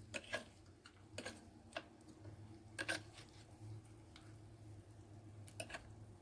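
Faint, scattered light clicks and taps from cooking utensils being handled while ingredients are prepared for the tajine, over a low steady hum.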